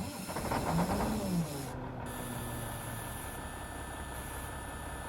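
A vehicle engine running steadily, with a brief pitched sound that rises and falls during the first second and a half.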